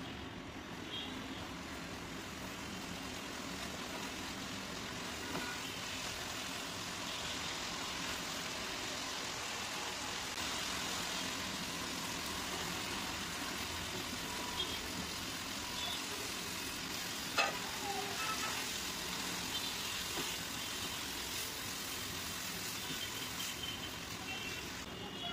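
Spiced onion masala sizzling in a hot wok, stirred and scraped with a silicone spatula; grated coconut is tipped in and mixed through. A steady sizzle with a few small ticks and one sharp click about 17 seconds in.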